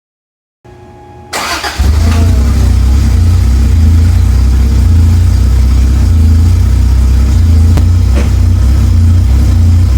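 Toyota Cressida MX83's engine catching and starting about a second and a half in, then settling into a steady idle through its newly built 2-to-3.5-inch exhaust with a stainless tip. It is pretty quiet, and the idle is a little rough, which the owner puts down to distributor timing.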